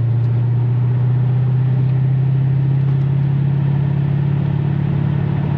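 V8 engine of a 1986 Chevrolet Corvette C4 droning under way on a test drive, its pitch rising slowly as the car gains speed, over a steady rush of road and wind noise. The driver blames the noise first on a worn window seal, then on a door not shut all the way.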